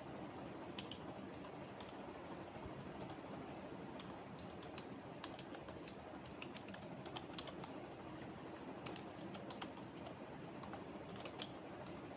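Computer keyboard typing: irregular keystroke clicks in short flurries with brief pauses between them, over a steady background hiss.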